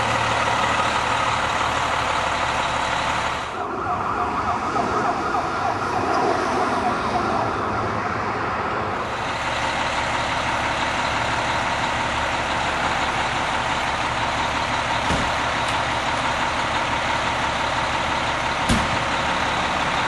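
American LaFrance fire engine running, a loud steady wash of engine and road noise, with two short knocks in the second half.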